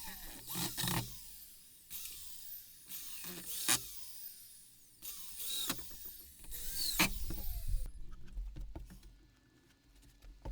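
A small electric motor whirring in short bursts, about five of them, each under a second, with its pitch sliding down as it stops.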